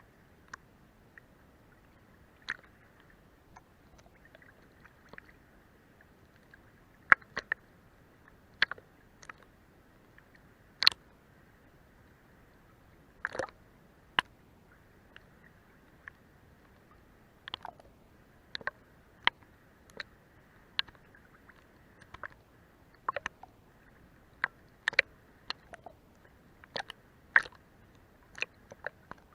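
Seawater lapping against a boat's hull: irregular sharp wet slaps and splashes, several every few seconds, over a faint steady wash.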